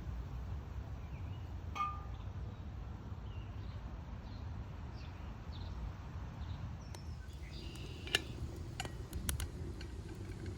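Metal cookware or utensils clinking: one ringing strike about two seconds in, then several sharp clinks near the end, over a steady low rumble, with faint high chirps of birds.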